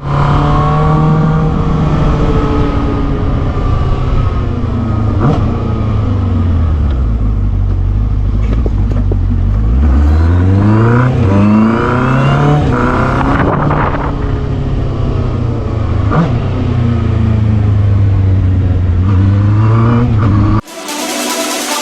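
Benda LFC 700 cruiser's 680cc four-cylinder engine on its stock exhaust while riding. The engine note falls slowly for about ten seconds as the bike slows, then rises quickly in a few steps as it speeds up through the gears, and holds steady at cruising speed. The engine sound cuts off abruptly about a second before the end.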